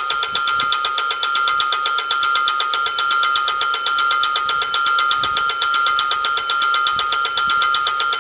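Electric railway warning bell ringing rapidly and without a break: fast, even strikes over a steady ringing tone. It starts suddenly.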